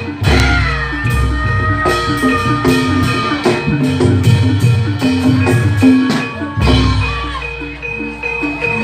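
Javanese gamelan music of the kind that accompanies barongan: a metallophone melody stepping note by note over many drum strikes, with a long held, slightly bending higher line in the first few seconds and deep gong-like booms at the start and again about two-thirds of the way through.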